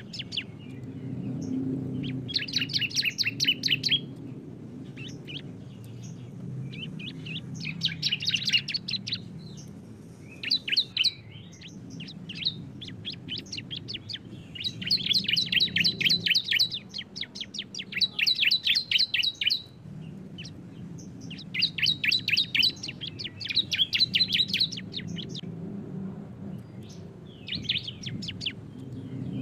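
Two bar-winged prinias (ciblek) singing the rapid, machine-gun-like 'bren' trill in repeated bursts of one to two seconds with short pauses between, over a low steady hum.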